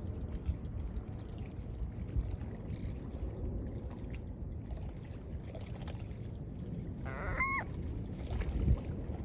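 Steady low rumble of surf and wind at the beach, with one short gull call about seven seconds in: a quick rattling start, then a brief held note.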